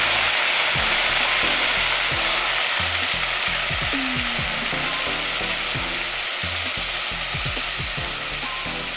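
Seasoned turkey neck pieces deep-frying in hot oil in a pot: a steady, dense sizzle that eases slightly over the seconds.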